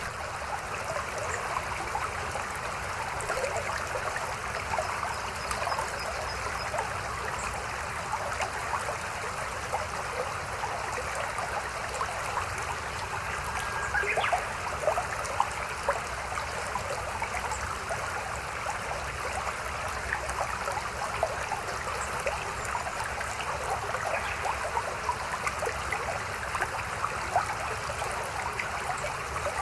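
Mountain stream babbling steadily, a continuous rush of flowing water with small splashes.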